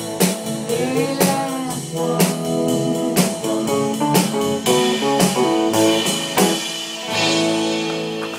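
Live blues band playing an instrumental passage: guitar notes, some bent in pitch, over a steady drum-kit beat.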